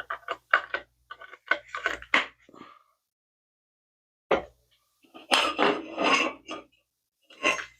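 Plastic parts of a handheld pool and spa vacuum and its extension pole being handled and snapped together: clusters of short clicks, knocks and rattles, busiest in the first couple of seconds and again past the middle.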